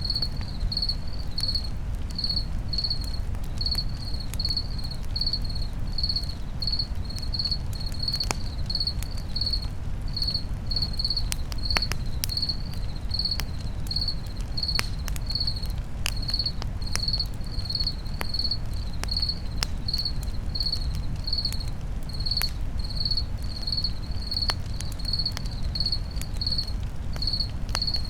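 Crickets chirping steadily, about two chirps a second, over a campfire with scattered sharp crackles and a low, steady rumble.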